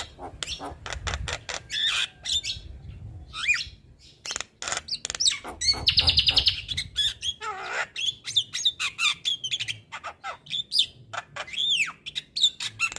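Male Javan myna singing a busy, varied song: rapid clicks, whistled rising and falling notes, and a loud buzzy rattle about six seconds in.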